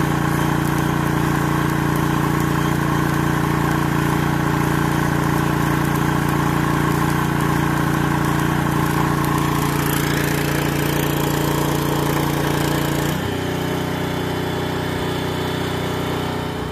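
Engine running steadily, then settling to a lower speed about thirteen seconds in.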